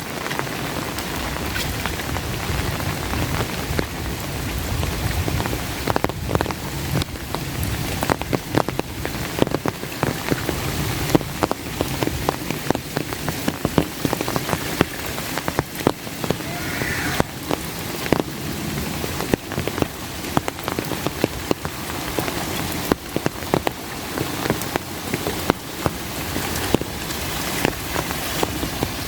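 Steady rain, with many close, sharp drops tapping on an umbrella overhead.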